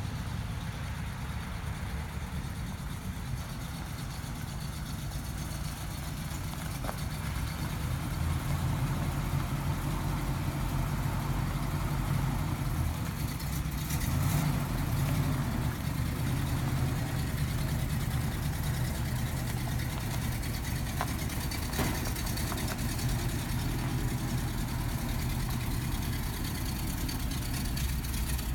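1962 Studebaker truck engine running steadily with a low rumble, growing a little louder about a third of the way in.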